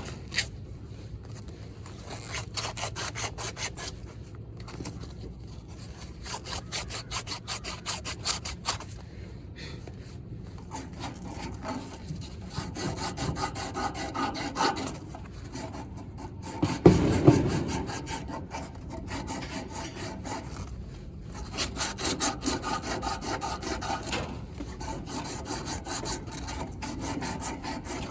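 Sandpaper rubbed back and forth over the ends of two air-conditioner pipes in several spells of quick strokes. It is cleaning the pipe ends so the welded joint grips well and does not leak. There is one loud knock about seventeen seconds in.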